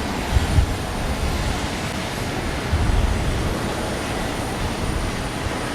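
Jet airliner engine noise from a Boeing 777-300's Pratt & Whitney PW4090 turbofans: a steady, broad roar with an uneven low rumble underneath.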